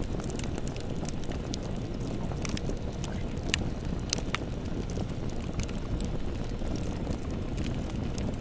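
Campfire burning: a steady low rush of flames with scattered sharp crackles and pops of burning wood, a few louder pops midway.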